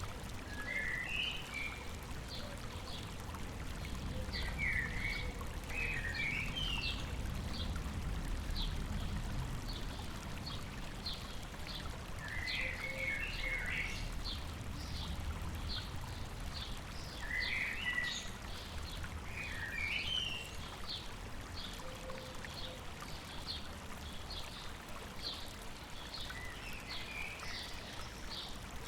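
Songbirds over the steady, low rush of a river: one bird repeats short high chirps in a rapid series throughout, while another sings brief warbling phrases every few seconds.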